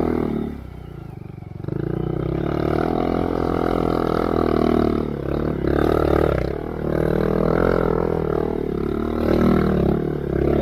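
Honda Monkey's 125 cc single-cylinder engine through a Yoshimura RS3 slip-on exhaust with a spark arrestor, revving up and falling off with the throttle while riding. The note drops off briefly about half a second in, then comes back and keeps rising and falling.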